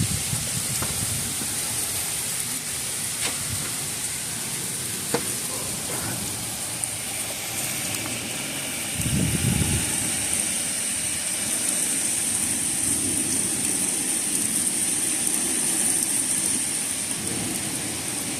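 Heavy rain falling steadily in a thunderstorm, with scattered sharp drop clicks and wind. A low rumble comes about nine seconds in.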